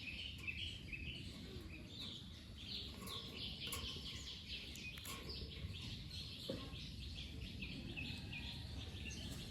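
Small birds chirping, a dense run of short high chirps, over a low steady rumble of background noise.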